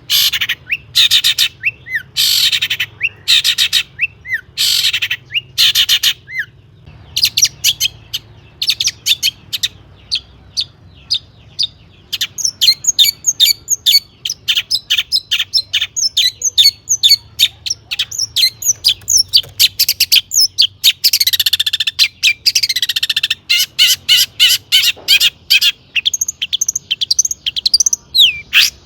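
A long-tailed shrike singing hard and continuously. It opens with a few loud harsh rasping notes, then breaks into a fast chatter of short, varied notes mixed with mimicked calls of other birds, with a run of downward-sweeping calls about two-thirds of the way through.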